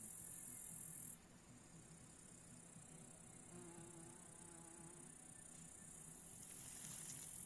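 Faint high, steady chirring of insects stridulating in late-summer grass. It fades about a second in and comes back near the end. Two short, faint low tones sound in the middle.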